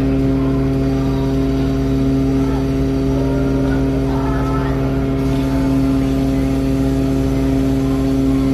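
A passenger ship's engines running, a steady unchanging hum, with faint voices in the background.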